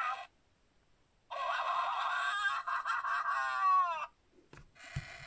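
LEGO Mario interactive figure's built-in speaker playing a voice-and-effects clip, the yelping 'on fire' reaction, that ends in a falling pitch, with a shorter clip near the end and a couple of light knocks from the plastic figure being handled.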